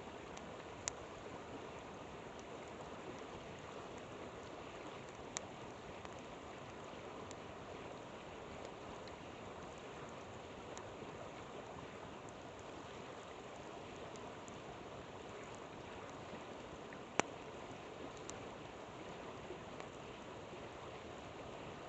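A flowing river rushing steadily, with a campfire giving a few sharp crackling pops over it, the loudest one well after the middle.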